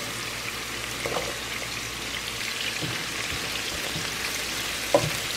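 Diced onions, garlic and jalapeños sizzling steadily in hot oil in a pot, stirred with a silicone spatula that knocks lightly against the pot a couple of times.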